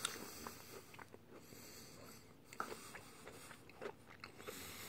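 Faint chewing of a crumbly chocolate cookie bar, with a few soft crunches scattered through.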